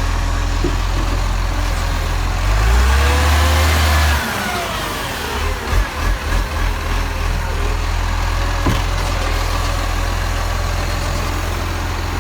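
Garbage truck engine running steadily, rising in speed about two and a half seconds in and dropping back about a second and a half later, with some uneven pulsing before it settles again.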